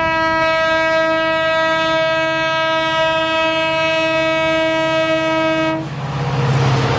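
Diesel locomotive horn sounding one long steady blast that cuts off suddenly almost six seconds in. After it stops, the low rumble and noise of the approaching train grow louder.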